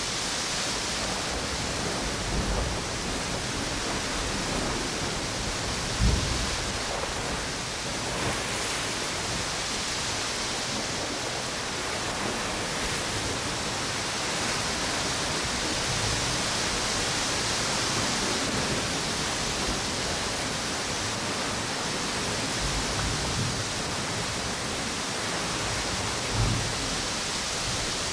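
Steady rush of ocean waves and strong wind on a tropical beach, rising and falling slowly, with palm fronds in the wind. A few short low thumps of gusts break in, the strongest about six seconds in and again near the end.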